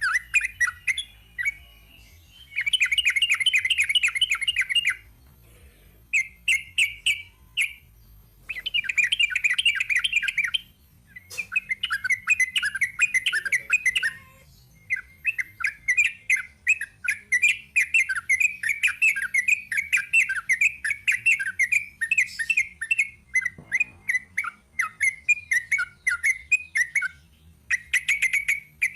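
Sooty-headed bulbul (trucuk) singing in long, rapid rolling phrases of closely packed chattering notes. The phrases come in several bursts with short pauses between them, and the longest runs unbroken for about twelve seconds in the second half.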